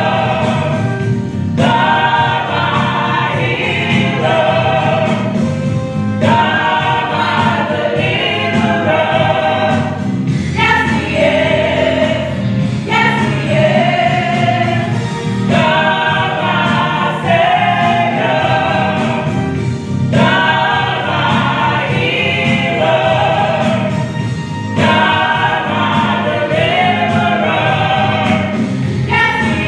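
Gospel choir singing with instrumental accompaniment, phrase after phrase at a steady level.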